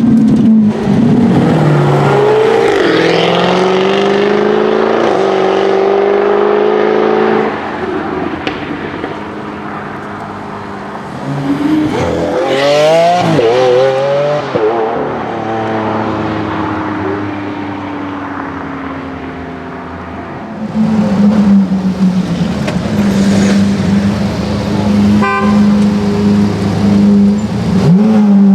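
Lamborghini Aventador V12 engine under way: it pulls up through the gears in rising steps, backs off and runs quieter, then revs sharply up and down about twelve seconds in. From about twenty-one seconds on it holds a loud, steady drone, broken near the end by a quick rattle of clicks.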